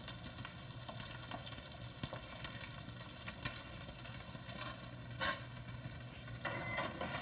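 Food sizzling steadily as it fries in a pan, with scattered light clicks and knocks and a louder brief clatter about five seconds in.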